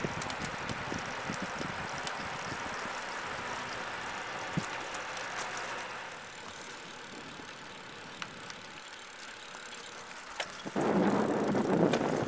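Wind and road noise from riding a bicycle, easing off about six seconds in. Near the end a louder sound with a steady low hum comes in.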